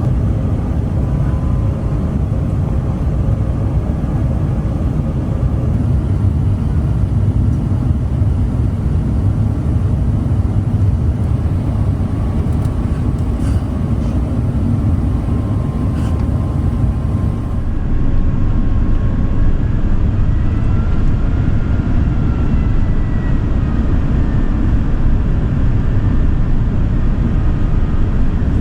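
Steady low roar of an Airbus A380 airliner heard from inside the economy cabin: engine and airflow noise, with faint whining tones that drift up and down in pitch. It grows a little louder about two-thirds of the way through.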